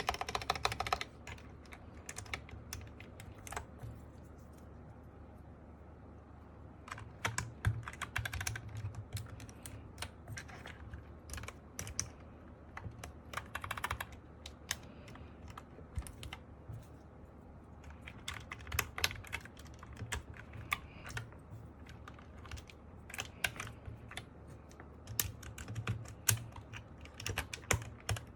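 Typing on an MK870 mechanical keyboard fitted with Sky Panda switches and Cherry-profile dye-sub keycaps: bursts of rapid keystrokes broken by short pauses.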